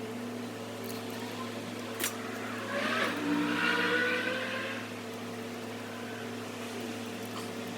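A vehicle engine speeding up for about two seconds, a little under three seconds in, over a steady mechanical hum, with a single sharp click shortly before.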